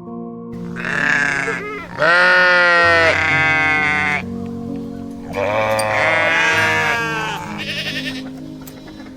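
Sheep bleating: a run of long, wavering bleats, the loudest starting about two seconds in and another about five and a half seconds in, over soft piano music.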